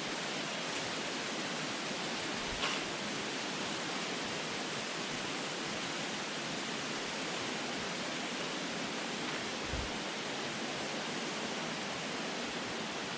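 Steady, even hiss with no pitch or rhythm, with a brief soft knock about two and a half seconds in.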